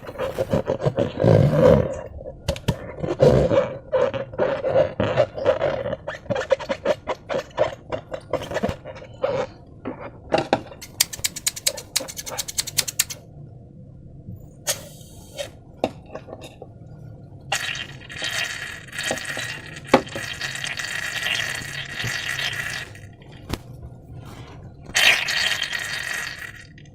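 Sticky slime worked by hand: a long run of wet crackles, squelches and clicks, with a fast rattle of ticks partway through and stretches of hissing noise in the second half.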